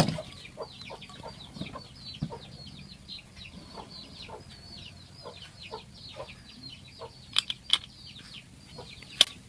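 Birds chirping: many short, high, falling chirps in quick succession, with a few sharp clicks, two close together a little past seven seconds and one near the end.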